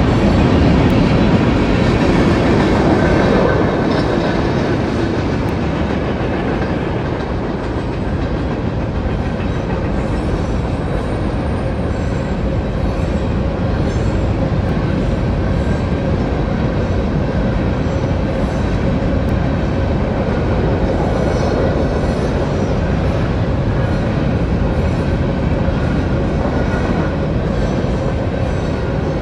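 Freight train of covered hopper cars rolling steadily past a grade crossing, its wheels rumbling and clattering on the rails, a little louder in the first few seconds.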